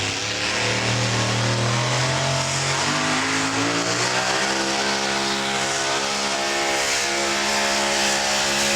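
Super modified four-wheel-drive pulling truck's engine running loud at full throttle under load on a pull, its note climbing a few seconds in and then holding steady.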